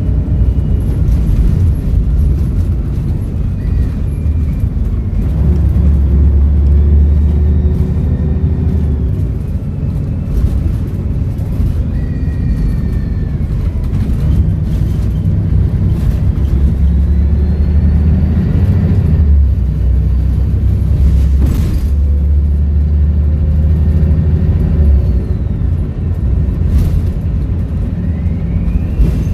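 Volvo B7RLE bus engine with a Voith automatic gearbox, pulling away and easing off several times. A steady low rumble swells with each acceleration, and a high turbo whistle rises and falls over it.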